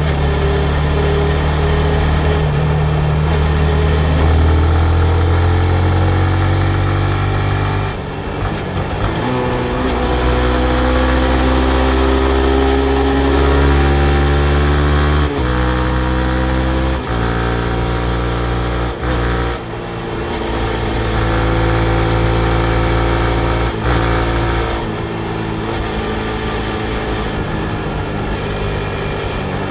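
2019 Yamaha MT-15's single-cylinder 155 cc engine pulling under way on the street. The engine note climbs, drops sharply about 8 and 15 seconds in as it shifts up, holds fairly steady through the middle, and settles lower near the end.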